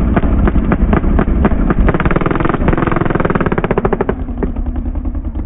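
Two performance-tuned motorcycle engines revving hard together at a drag-race start line, a rapid crackling rattle that eases slightly near the end.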